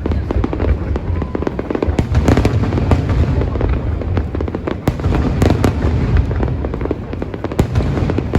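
Aerial fireworks shells bursting in quick succession: a continuous deep rumble of booms with sharper cracks every second or so.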